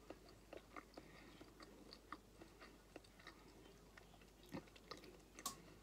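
Faint close-up chewing of a mouthful of pasta bake: soft, irregular wet mouth clicks, with a couple of sharper clicks near the end.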